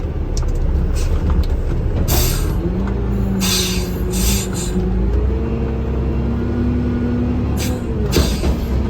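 A vehicle being driven, heard from inside the cab: a steady engine and road rumble with an engine note that steps up in pitch about halfway through. Several short hissing bursts come over it.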